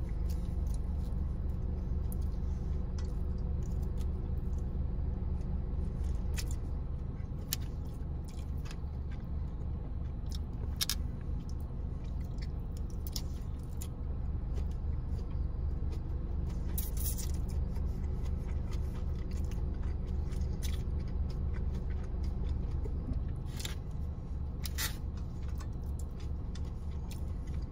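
Close-up eating sounds: chewing with scattered wet mouth clicks and a few sharper clicks as chow mein and chicken are eaten with a plastic fork from a styrofoam box. Under it runs a steady low hum in the car cabin.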